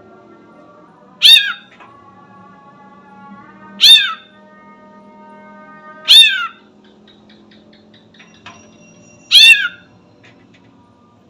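Sooty-headed bulbul mimicking a cat, giving four short, loud meow-like calls spaced two to three seconds apart.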